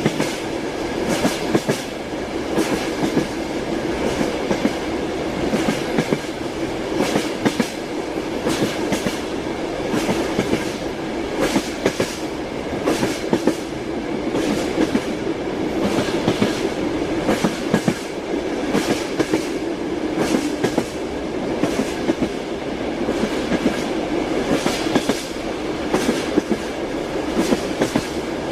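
Train wheels clattering over rail joints, heard from inside a moving passenger carriage: a steady running rumble with irregular clusters of sharp clicks and knocks.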